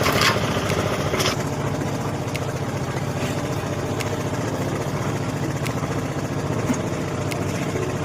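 Concrete mixer's engine running steadily, with a few short sharp knocks along the way.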